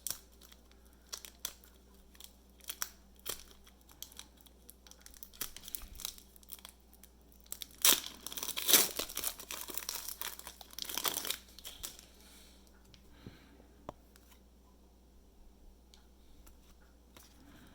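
A 2014-15 Hoops basketball card pack being torn open by hand, its wrapper tearing and crinkling in short scattered bursts that are busiest around the middle, then quieter handling of the cards.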